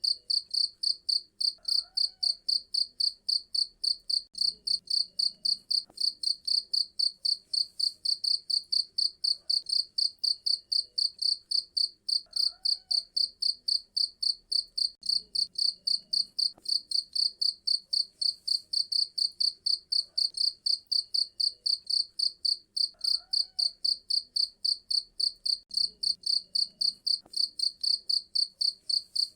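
Cricket chirping steadily and shrilly, about three chirps a second in an even, unbroken rhythm. A faint, lower call recurs in the background about every ten seconds.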